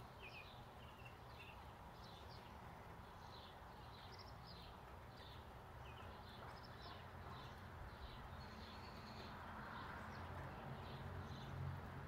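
Small birds chirping faintly, short high chirps repeated about every half second, over a low steady rumble that grows a little toward the end.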